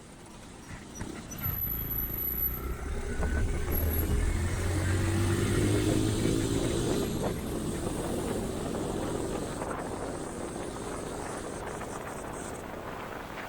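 A motor vehicle engine that swells to a loud peak over a few seconds, its pitch shifting, then slowly dies away, over road and wind noise.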